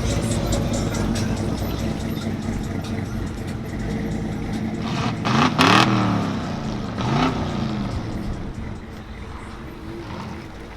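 Car engine revving twice, its pitch climbing and falling about five and seven seconds in, over a steady engine background that fades toward the end.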